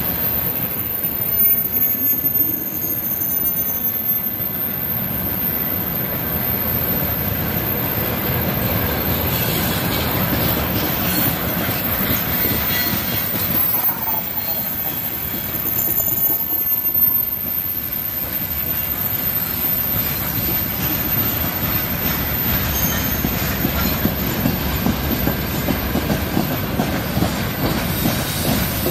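Freight train's gondola and tank wagons rolling past close by: a steady rumble and clatter of steel wheels on the rails, with brief faint high wheel squeals now and then.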